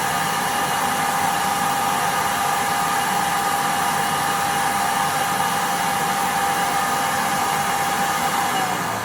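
Kärcher WD3P corded vacuum cleaner motor running at full speed with a steady whine while its suction is measured on a vacuum gauge. Near the end it is switched off and the whine falls in pitch as the motor spins down.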